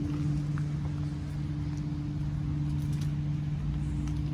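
A steady low mechanical hum at a constant pitch, with a faint rumble under it.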